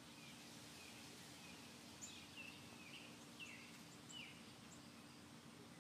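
Faint outdoor ambience: a bird giving short, falling chirps, repeated irregularly, over a faint steady hum.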